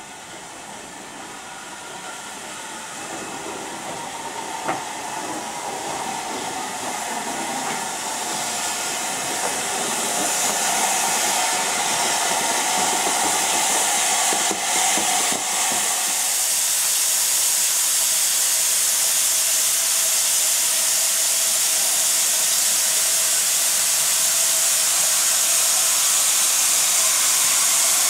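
Steam train drawing closer, growing steadily louder, with a single knock about five seconds in. From about halfway a strong, steady steam hiss takes over.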